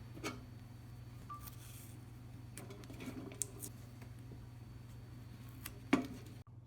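A few light clicks and knocks of small objects being handled: one just after the start, a short cluster around the middle, and the loudest near the end, over a steady low hum.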